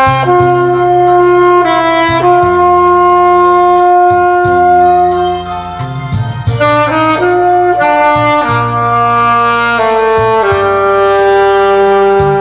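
Saxophone playing a slow melody in long held notes over a backing track with a steady beat.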